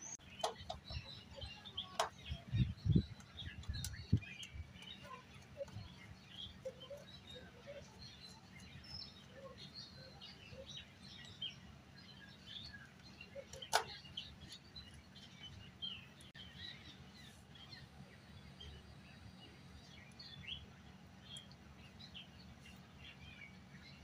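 Faint birdsong: scattered short bird chirps throughout, over a steady low hum. A few sharp clicks and low knocks break in, the loudest a single click about fourteen seconds in.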